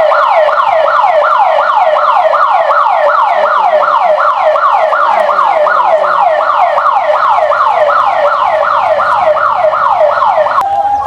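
Building fire alarm sounding: a loud, rapidly repeating falling sweep, about three or four sweeps a second. Just before the end it changes to a steady tone.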